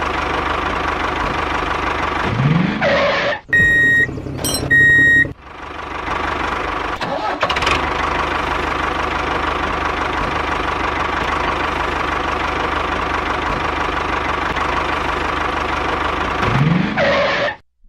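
Tractor engine running steadily with an even knocking beat, interrupted about three and a half seconds in by two short high beeps.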